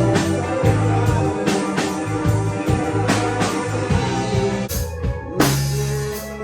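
Psychedelic alternative rock music, a drum kit beating steadily over bass and other instruments, with a short break about five seconds in before a big drum hit brings the band back in.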